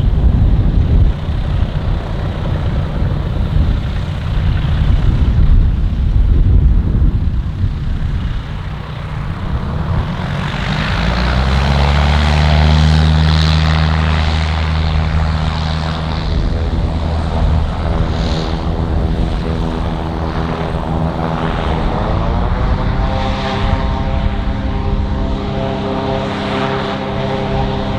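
Propeller aircraft running: a low rumble gives way about ten seconds in to a steady engine-and-propeller drone, which steps up in pitch about twenty-two seconds in.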